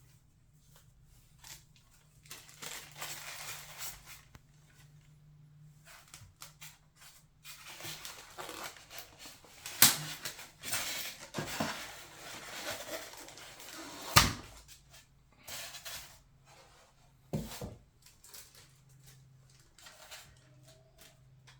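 Unboxing a diecast model airliner by hand: packaging rustling and scraping in irregular bursts, with a few sharp knocks, the loudest about ten and fourteen seconds in.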